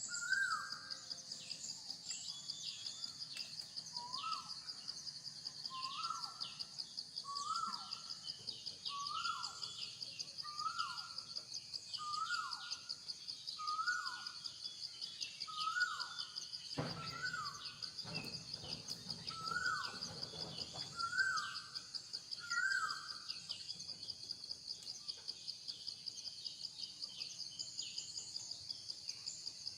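Insects buzzing steadily with a fast, even pulse. Over it, a short falling call repeats about every one and a half seconds and stops a little after twenty seconds in. About seventeen seconds in there is a brief rustling thump.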